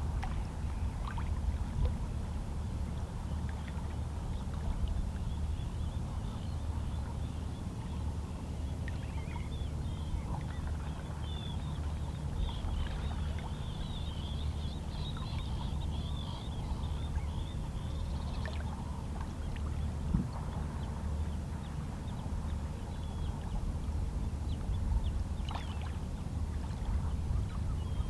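Small, calm sea waves lapping and washing against shoreline rocks in a steady low wash. Through the middle, a flurry of high chirping bird calls rises over the water.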